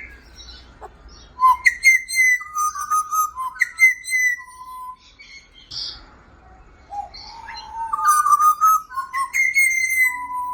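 Pied butcherbirds singing: clear, flute-like whistled notes in two phrases, with a pause of about three seconds between them.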